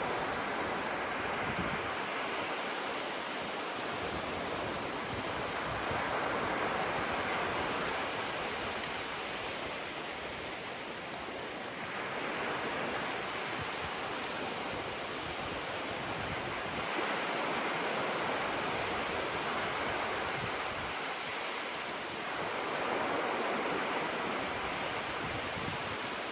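Gentle waves breaking and washing up on a beach shore: a steady hiss of surf that swells and eases every several seconds.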